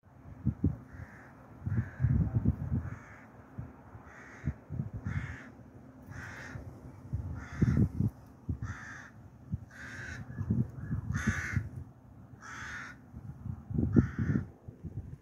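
A bird calling again and again, about once a second, about a dozen calls in all. Underneath are irregular low rustles and knocks close to the microphone, which make the loudest moments.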